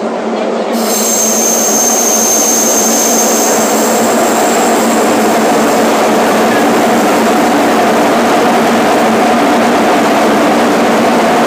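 JR 205 series electric commuter train running at speed, heard from inside the car: a steady rumble of wheels on rail, with a thin high squeal for the first few seconds.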